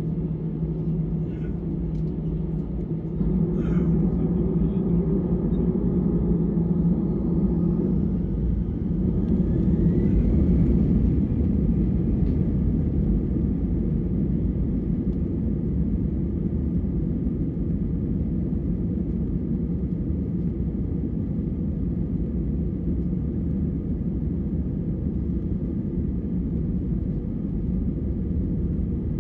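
Airbus A319 jet engines and airflow heard from inside the cabin during takeoff: a low, steady rumble that gets louder a few seconds in, with a rising whine as the engines spool up around ten seconds in, then a steady roar.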